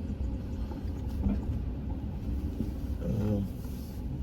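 Vehicle driving slowly down a plowed driveway, a steady low rumble of engine and tires. About three seconds in there is a brief pitched sound.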